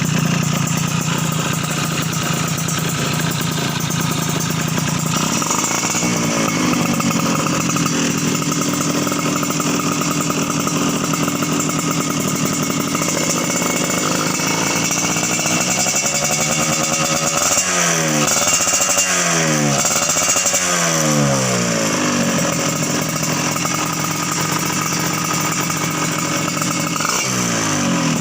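Yamaha F1ZR two-stroke motorcycle engine breathing through a YRC Racing aftermarket exhaust, idling and then revved. The revs rise and hold for several seconds about five seconds in, then come a run of quick rev blips in the second half and one more near the end, dropping back to idle between them.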